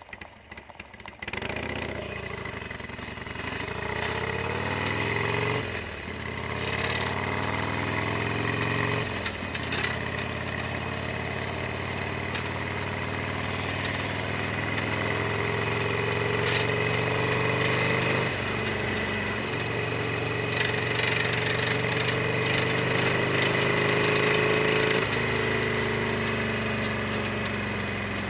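Harley-Davidson Sportster XL1200R's air-cooled V-twin running under way, rising in pitch as it pulls through the gears. The pitch drops four times at the upshifts.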